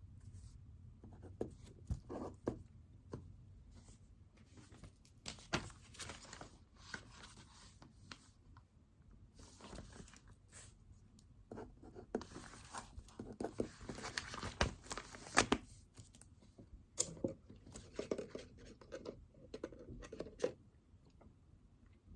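Writing and paper handling at a desk: scratchy rustling strokes of pen and paper in several stretches, with scattered light clicks and knocks.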